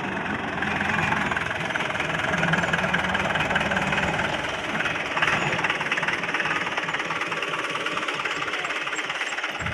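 Diesel engine running steadily with a fast knocking clatter, a little louder from about a second in.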